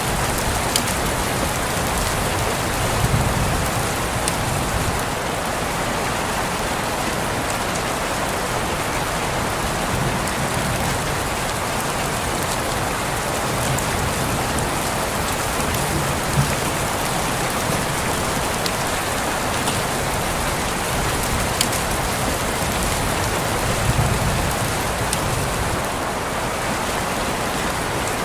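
Steady rain falling on a window pane, an even hiss with a few single drops ticking louder now and then.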